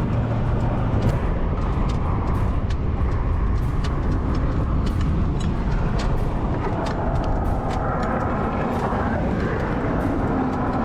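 Steady rumbling road-traffic noise with a vehicle passing, and scattered light clicks throughout.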